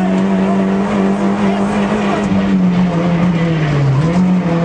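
Rally car engine heard from inside the cockpit, held at high revs, dipping briefly and picking up again near the end.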